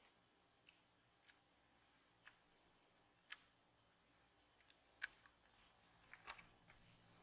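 Faint, scattered sharp clicks and snips of small hand tools at a modelling bench, loudest about three seconds in and again near five seconds, with a cluster of quicker ones in between.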